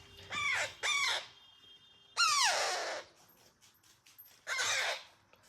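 Baby parrot calling: four squawks with a falling pitch, two short ones in quick succession about half a second in, a longer one a little after two seconds, and a last one near the end.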